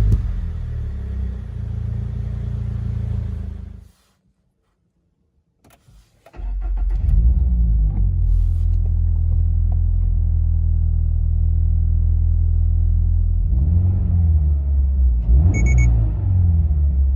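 Toyota GR86's 2.4-litre flat-four through a Fujitsubo A-RM single-exit muffler, idling, switched off about four seconds in and restarted about two seconds later, then settling to a steady idle. Near the end it is blipped twice, with a brief electronic beep between.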